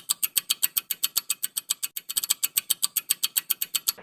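Countdown-timer ticking sound effect: rapid, even clock-like ticks at about eight a second, marking the time left to answer a quiz question, and stopping abruptly at the end.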